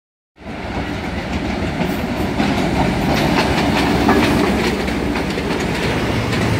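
Diesel locomotive pulling a passenger train slowly past a station platform: the engine running, then the coaches going by with wheels clicking over the rail joints. The sound starts about half a second in and grows slightly louder as the train comes alongside.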